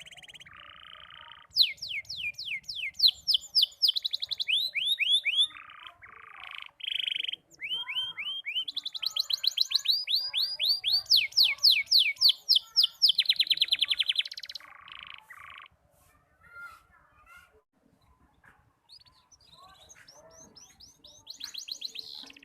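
Young canary practising its song: fast trills of repeated down-sweeping notes in choppy phrases broken by short pauses. It goes quiet for a while and starts up again near the end. This is the still-disjointed song of a juvenile learning to sing.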